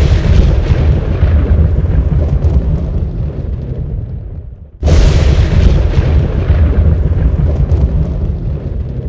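Thunder: a rumble from a strike just before starts at full strength and fades away over about four seconds. Then a second sudden thunderclap hits about five seconds in and rumbles on, heaviest in the deep lows.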